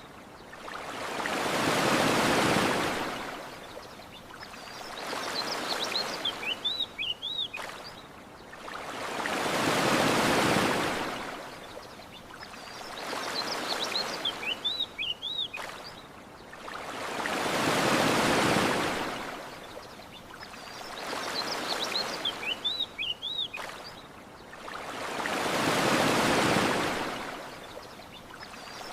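Ocean waves washing onto a beach, one slow swell rising and falling about every eight seconds, four in all. Between the waves come short bursts of high bird chirps.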